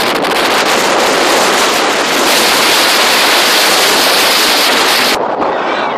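Strong wind blowing hard across the microphone: a loud, dense rush that grows harsher about two seconds in and turns duller near the end.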